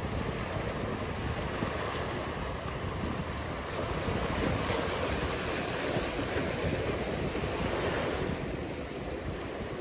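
Ocean surf washing in a steady rush, with wind buffeting the microphone. It swells louder about halfway through and eases off near the end.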